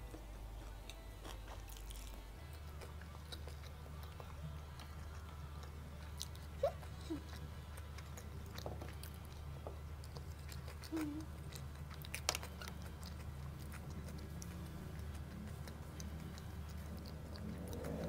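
A person chewing a mouthful of kimbap, a seaweed-wrapped rice roll, with faint soft mouth sounds and a few sharp clicks near the middle.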